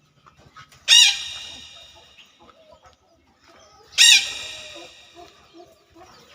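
A chicken calling twice, about three seconds apart. Each call is loud, starts suddenly and trails off over about a second.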